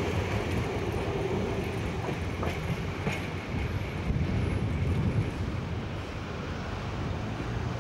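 Class 117 first-generation diesel multiple unit running slowly over pointwork: a steady low rumble with a few sharp clicks from the wheels crossing rail joints, loudest about four to five seconds in.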